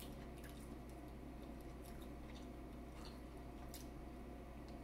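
A person chewing seafood boil food with faint wet mouth clicks, over a steady low hum.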